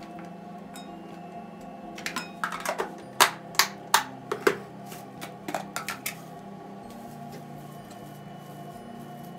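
A quick run of sharp clicks and clattering knocks of hard objects, about a dozen over some four seconds starting about two seconds in, over soft steady background music.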